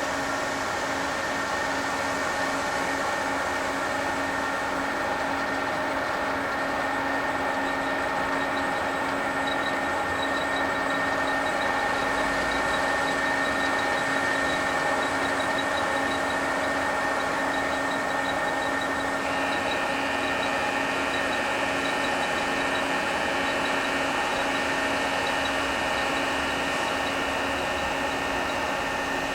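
Freight train's diesel locomotive running steadily, a dense, unchanging hum of many tones. A higher steady tone joins about two-thirds of the way through.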